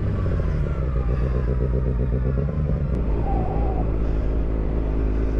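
Motorcycle engine idling, its revs falling over the first second and then settling into a steady idle.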